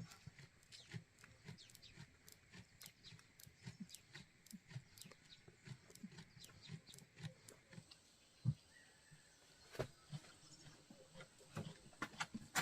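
Faint farm-animal sounds: short, low calls at irregular intervals, mixed with scattered sharp clicks, a couple of them louder near the end.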